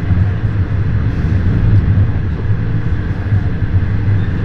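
Steady low rumble of a moving sleeper train.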